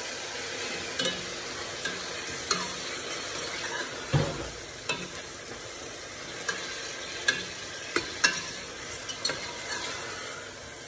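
Chopped tomatoes sizzling in hot oil in an aluminium pot while a metal slotted spatula stirs them, scraping and clinking against the pot at irregular moments over a steady frying hiss.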